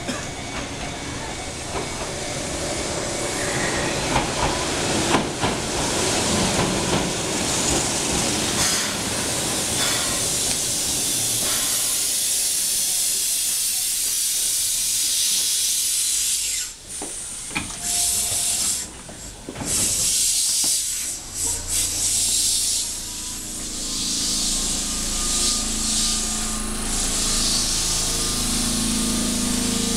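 Keihan 600-series electric train running in and stopping at the platform, with long hissing of compressed air from its brakes and doors. Near the end a low steady hum from the standing train.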